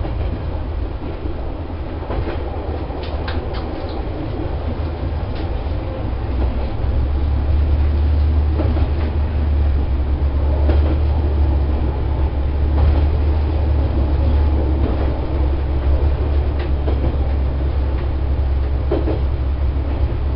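Diesel railcar running along the line, heard from inside the cab: a steady low engine drone that grows louder about seven seconds in, with scattered clicks of the wheels over the rail joints.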